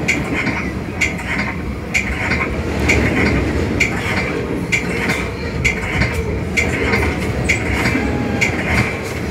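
Metra commuter train running on the rails, heard from the cab car: a steady rumble with a sharp ringing strike about once a second.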